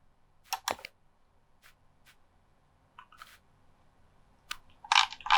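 A few sharp clicks: two close together about half a second in and fainter ones scattered after. A short hissing burst comes near the end.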